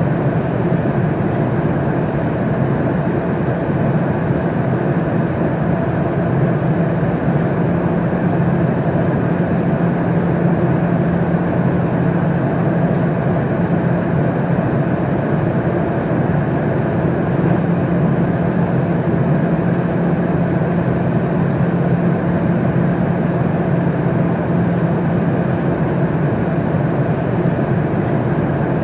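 Steady airliner cabin noise in flight: a constant low drone with a faint hum, unchanging throughout.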